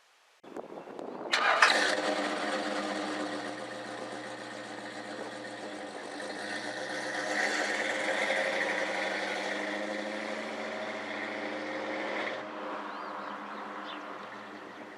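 Car engine of a 1984 Ford Mustang GT350 starting about a second in and running steadily for roughly eleven seconds, rising a little midway before it cuts out near the end.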